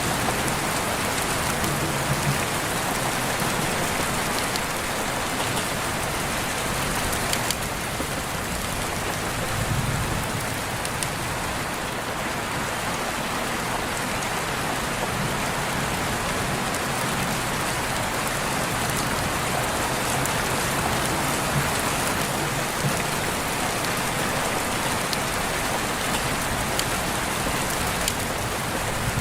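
Steady rain falling, an even hiss with occasional single drops ticking through it.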